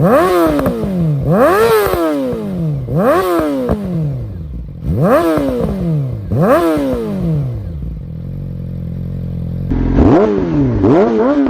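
Yamaha R6 inline-four through an Akrapovic full exhaust, revved in quick throttle blips that rise sharply and fall back, five times about a second and a half apart. It then settles to a steady idle before two more quick blips near the end.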